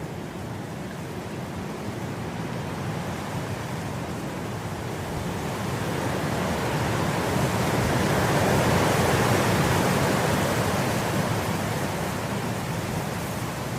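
Wind blowing through grass: a steady rush that swells into a gust about halfway through and eases off again.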